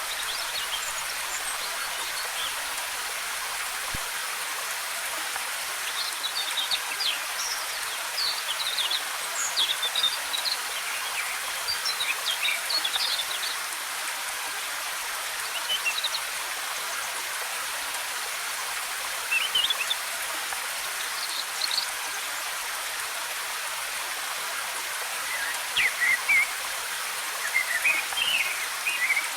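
Steady hiss of a waterfall's cascading water, with forest birds chirping in short runs of quick high notes over it, most often in the middle and near the end.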